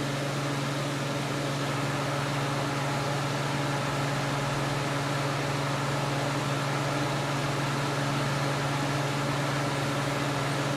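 A machine running steadily: a low hum under an even hiss.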